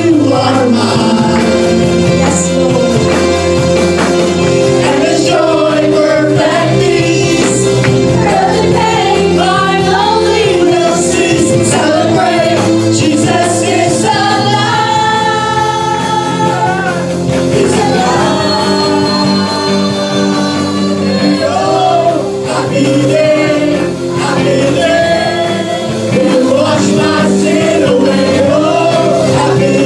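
Gospel worship song: voices singing a melody over steady instrumental backing.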